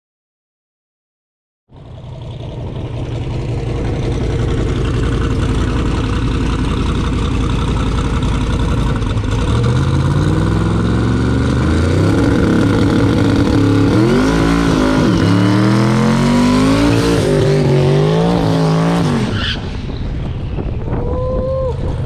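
Twin-turbo Buick Grand National's V6 at full throttle on a drag-strip pass, starting after about two seconds of silence. The engine's pitch climbs and drops back several times as it shifts through the gears, then it eases off near the end.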